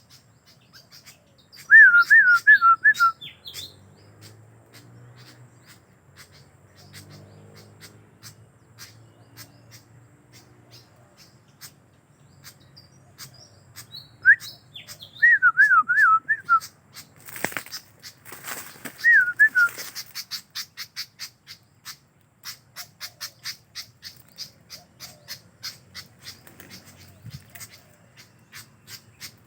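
A murai songbird giving three short bursts of quick, loud, zigzagging whistled notes: early on, around the middle, and again shortly after. Just before the last burst comes a brief burst of rustling noise, and a train of fast, even clicks runs through the later part.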